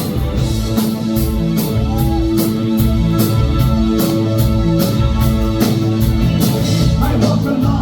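Live new-wave band playing an instrumental passage: a steady drum beat under sustained chords, heard through a phone's microphone in the audience.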